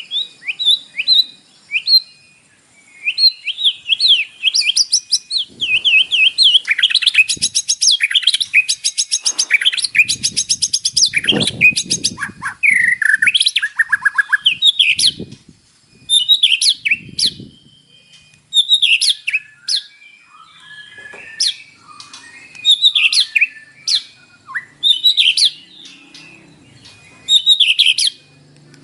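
White-rumped shama singing a varied song of whistled and chattering phrases, with a fast run of rapidly repeated notes through the middle, then shorter phrases with pauses between them. A few low thuds sound under the middle part.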